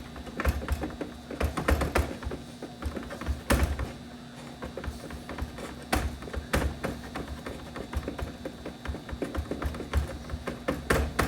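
A microfiber towel being scrubbed over a plastic gauge cluster lens, making irregular taps and knocks as the cluster shifts under the hand. The loudest knocks come about three and a half, six and eleven seconds in.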